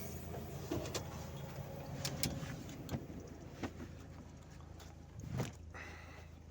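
The stopped all-terrain vehicle's 1.5-litre Toyota 1NZ-FE engine idling steadily. Scattered soft knocks and rustles from someone stepping out into knee-deep snow beside it.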